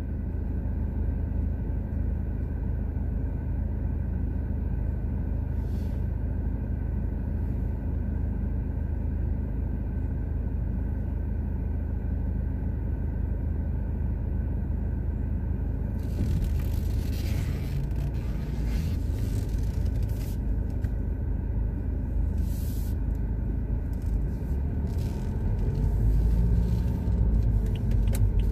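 Car engine idling in stopped traffic, heard from inside the cabin as a steady low rumble. From a little past halfway, intermittent hiss joins it. Near the end the rumble grows as the car moves off.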